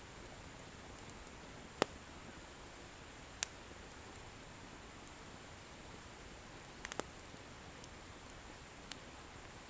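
Wood bonfire burning: a faint, steady hiss broken by a few sharp crackles as the firewood pops, with three in quick succession about seven seconds in.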